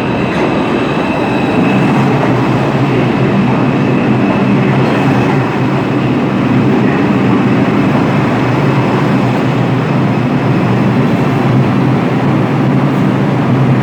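Bombardier R142 subway train rolling through the station as it comes in, a steady loud rumble of wheels and running gear under a low hum, with a faint high whine that fades out in the first few seconds.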